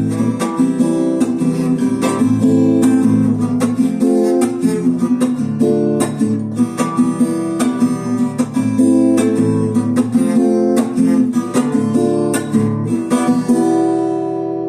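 Acoustic guitar strummed in a steady rhythm as the song's closing instrumental. Near the end the strumming stops and a final chord rings out and fades.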